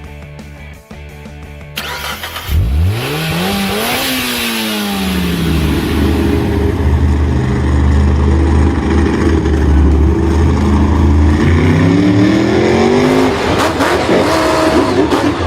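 Music gives way, about two and a half seconds in, to a vehicle engine revving: its pitch climbs sharply, drops back, holds steady for several seconds, then climbs again near the end.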